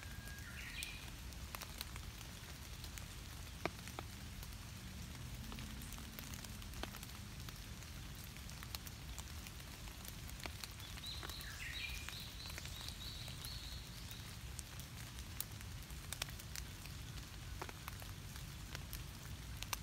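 Steady rain, with many scattered drops ticking close by. A high chirping call sounds briefly at the start and again for about three seconds around the middle.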